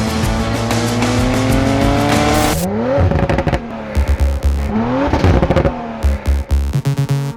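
A car engine revving in one long, steadily rising pull, then an abrupt cut to two short quick revs over music with a heavy thumping beat.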